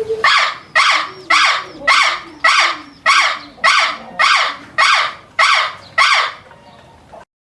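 A bird's harsh call repeated eleven times at an even pace, a little under two a second, then the sound cuts off abruptly.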